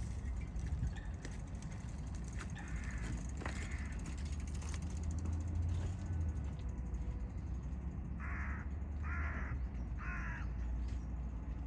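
A bird giving three harsh, hoarse calls about a second apart in the second half, with a few fainter calls earlier, over a steady low rumble.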